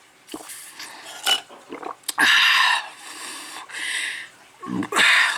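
A person's loud, breathy exhales or sighs, two strong ones and a weaker one between, from a woman who says she is worn out from scrubbing.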